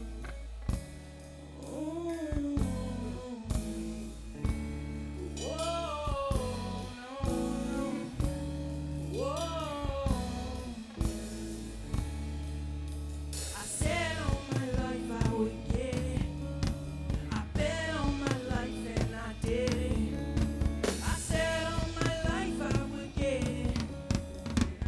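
Live band playing a song with a steady drum beat, bass and guitar, with sung vocal phrases sliding in pitch over it.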